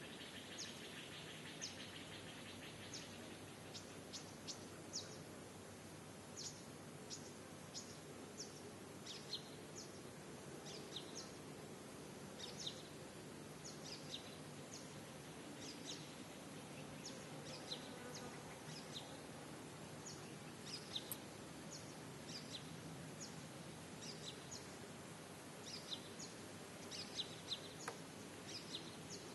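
Birds chirping: many short, high chirps, irregular and overlapping, over a steady background hiss.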